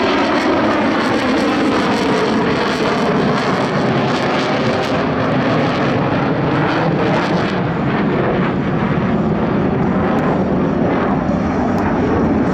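Blue Angels F/A-18 Hornet jets at high power as the six-jet formation breaks apart: a loud, continuous jet roar with a crackling edge. The roar thins a little in its upper range toward the end.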